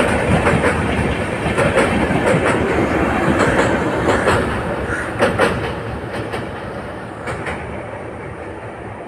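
Passenger express train's coaches rolling past, wheels clacking over the rail joints, fading away as the train moves off.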